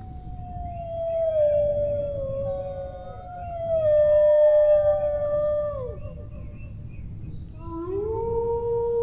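Dogs howling: long, drawn-out howls that slide slowly down in pitch, two of them overlapping at different pitches, dying away about six seconds in. Near the end a new howl rises and then holds steady.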